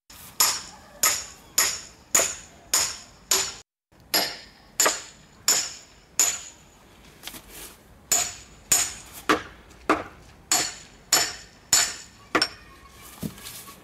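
Repeated blows of a metal tool into a wooden log, about two a second, each hit with a short bright metallic ring, in runs broken by a couple of short pauses.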